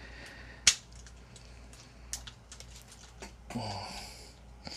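Hard plastic parts of a Transformers Sandstorm action figure clicking as they are forced and worked into place during transformation: one sharp, loud click about a second in, then several lighter clicks.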